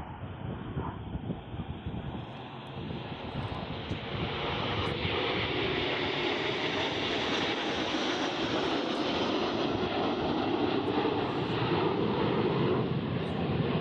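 An aircraft's engines passing overhead: the engine noise grows louder about four seconds in and stays loud, with its high end strongest around the middle, as in a flypast.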